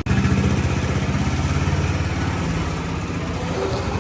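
A diesel engine running steadily with a fast, even pulsing, a little louder for the first two seconds.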